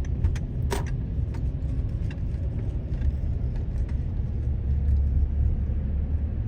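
Minivan being driven at speed: a steady low road and engine rumble, with a few light clicks in the first second.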